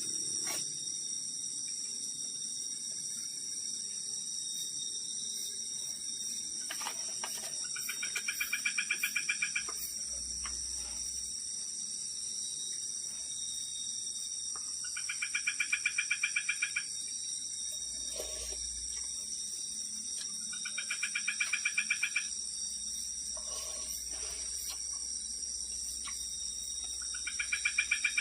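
Night insects keep up a steady high-pitched drone while an unidentified animal gives a rapid pulsed trilling call four times, about six seconds apart, each call lasting a second or two and growing louder as it goes.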